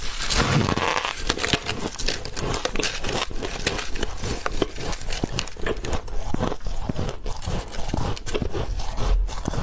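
A person biting and chewing a chunk of frosty white ice: a quick, irregular run of sharp crunches and crackles.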